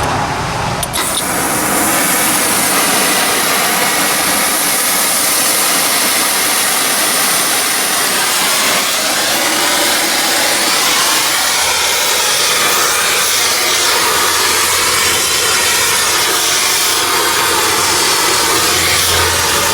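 Loud, steady machine noise with a strong hiss from a shop tool, starting suddenly and running without a break.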